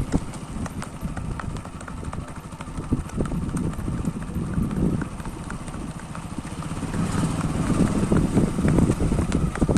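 Hoofbeats of a Marwari mare being ridden: a quick, continuous run of hoof strikes that grows louder around the middle and again near the end.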